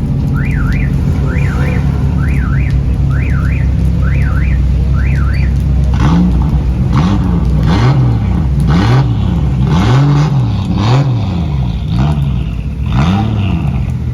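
A car alarm warbling up and down in a repeating pattern over a steady engine rumble for about five seconds; then it stops, and a run of about eight short revs follows, each rising and falling in pitch.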